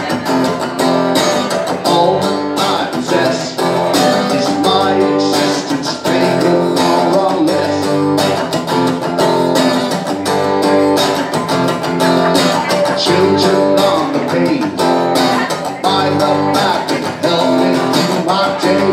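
Live indie rock music played loud, led by strummed guitar.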